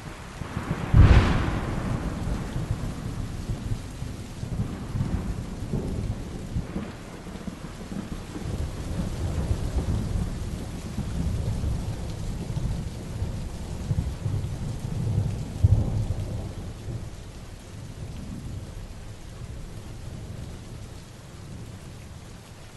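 Heavy rain falling steadily with thunder: a sharp thunderclap about a second in, followed by long low rumbling and another loud rumble peak about two-thirds of the way through, easing to rain alone near the end.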